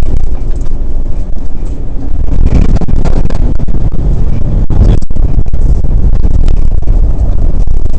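Rally car engine running under load with tyre and gravel noise on a dirt track, heard from inside the cabin; it gets louder about two seconds in.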